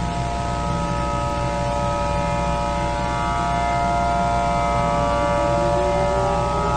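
A steady, droning chord of several held tones. About five seconds in, a lower tone joins and rises slowly in pitch.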